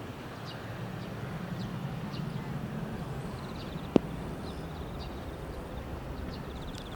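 Outdoor airport ambience: a steady low rumble with faint high chirps scattered through it, and a single sharp click about four seconds in.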